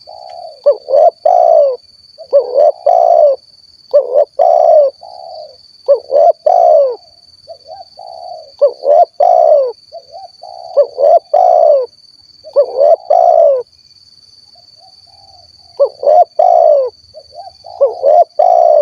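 Spotted dove (tekukur) singing its 'kuk 1' cooing song: a phrase of low coos repeated about every two seconds, with a longer pause of a couple of seconds about three-quarters of the way through. A faint steady high whine runs behind it.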